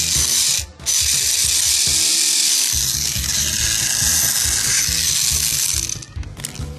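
Plarail Doraemon Tram's small electric motor and plastic gearbox running, a loud high whir with the gears clattering. It cuts out briefly near the start, then stops about six seconds in.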